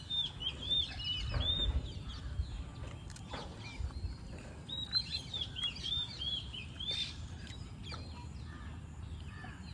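A small bird singing: two runs of quick, repeated chirps, one at the start and another about five seconds in.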